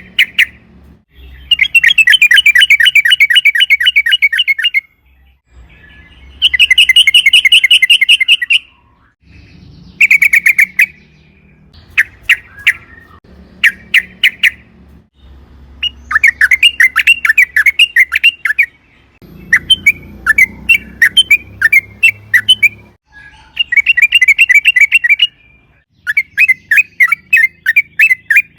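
Yellow-vented bulbul (trucukan) singing long, fast chattering trills of rapidly repeated notes. The trills come in phrases of one to three seconds with short pauses between them.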